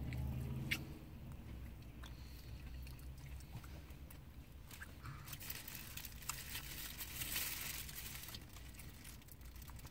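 A baby chewing and biting fried chicken, with small wet mouth clicks and a soft rustle partway through, over a low steady hum inside a car.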